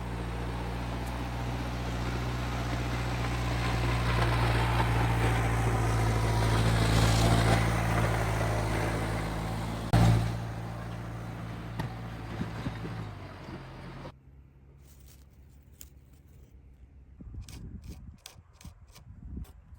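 An engine runs steadily with a low, even hum that grows louder, gives a sharp knock about ten seconds in, then winds down and stops a few seconds later. After it stops, quiet scraping begins and then the first rhythmic strokes of a hand saw on wood near the end.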